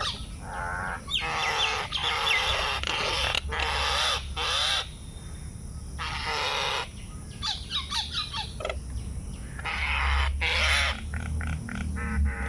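Birds calling: a series of loud, harsh calls, each about half a second to a second long, with short gaps between them.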